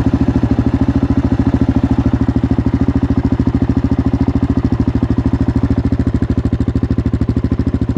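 Honda TRX400X's single-cylinder four-stroke engine idling through a Lexx MXe slip-on exhaust with its spark arrestor fitted: a steady, even beat of exhaust pulses with no revving.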